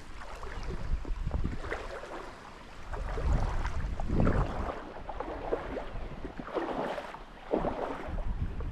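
Wind buffeting the microphone in uneven gusts, with irregular swishing and rustling noises over it.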